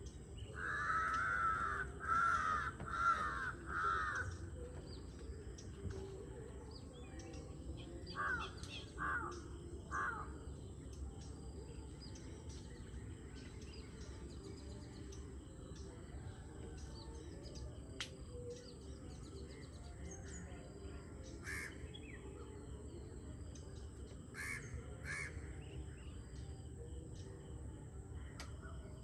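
Crow cawing: a run of four loud caws, then three shorter caws a few seconds later and a few fainter ones further off near the end, over faint chirps of small birds and a low steady background.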